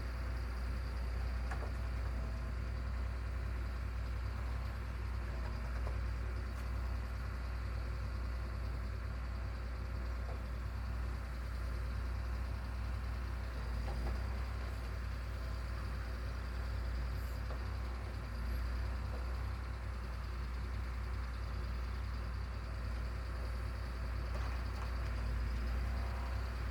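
An engine running steadily at one speed: a deep, even rumble that does not rise or fall.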